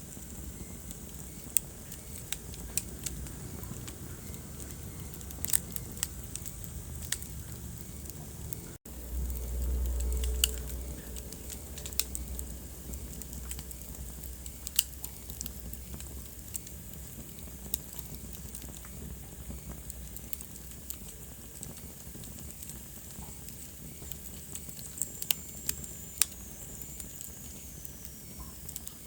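Wood fire crackling, with sharp pops scattered irregularly over a low hiss. About nine seconds in the sound drops out for an instant, then a low rumble swells for a couple of seconds.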